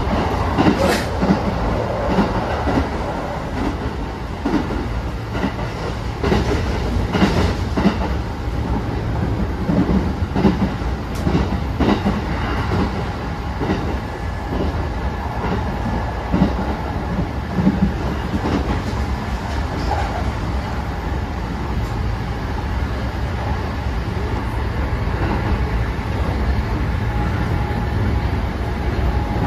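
Running sound inside the passenger cabin of a Kintetsu 9000 series electric train at speed: a steady rumble of wheels on rail, broken by repeated clacks of the wheels over rail joints.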